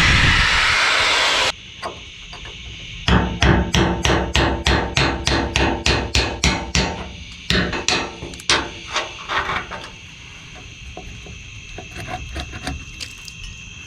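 A loud rushing noise cuts off suddenly about a second and a half in. Then a hammer strikes rapidly, about three or four blows a second, pauses briefly and goes on with slower, fainter blows, as parts are knocked loose while the skid steer's cab is taken off.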